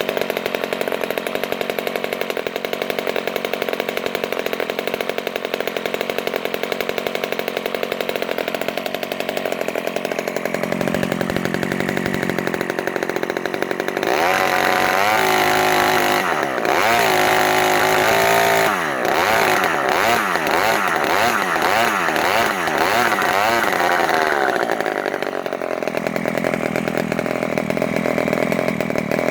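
Quadra 35 cc single-cylinder two-stroke model aircraft gas engine with points ignition, running steadily at low speed, then revved up about halfway through, its pitch rising and falling with the throttle for about ten seconds before dropping back to a low-speed run near the end.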